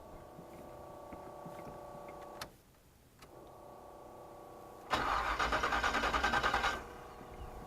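V8 in a Chevy S10 being cranked over by its starter for about two seconds, with a fast, even pulsing, then cutting off without the engine catching. The distributor has been knocked, so the ignition timing is probably a little out. A faint steady hum sits under it before and after.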